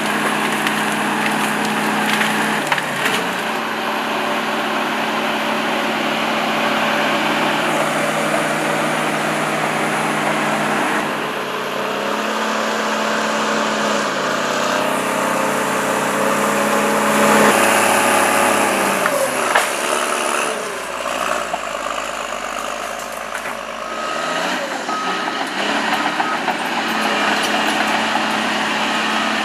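Heavy machinery's engine running, its speed and load shifting several times, with a series of evenly spaced beeps in the last few seconds.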